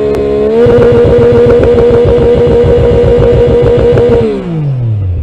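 Motorcycle engine held at steady high revs with a rapid pulsing beat, then the revs fall away smoothly near the end.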